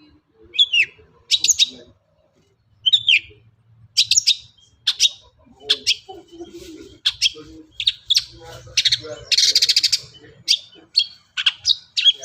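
Long-tailed shrike (cendet) singing a run of sharp chirps and falling whistled notes, strung together with mimicked calls, and a harsh buzzing rattle about nine seconds in.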